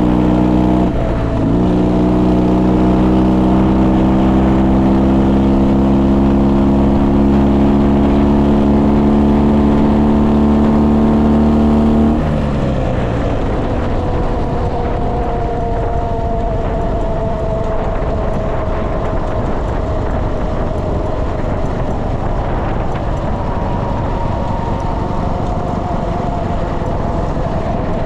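Ural motorcycle's flat-twin engine under way, pulling with a slowly rising note after a brief dip about a second in. About twelve seconds in the throttle is closed and the engine note drops away, leaving a fainter, slowly falling tone under wind and road noise.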